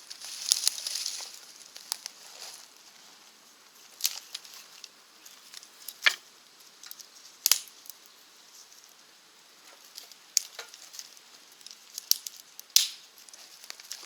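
Wood fire burning in a rocket stove, crackling with irregular sharp pops over a faint hiss.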